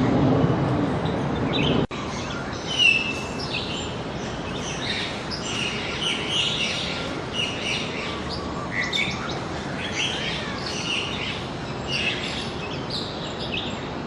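Small birds chirping and calling, many short high calls overlapping, from about two seconds in. Before that, a low rumbling noise that cuts off suddenly.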